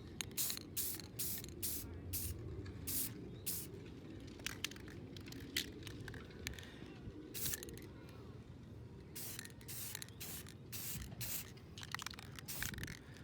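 Repeated short spraying bursts with a hiss, coming irregularly about one or two a second, as liquid or air is sprayed in short squirts during the restoration work.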